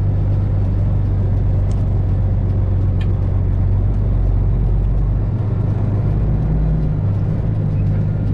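Diesel engine of a Freightliner Classic XL semi truck running as the truck drives slowly, heard from inside the cab as a steady low drone; the engine note shifts about five seconds in.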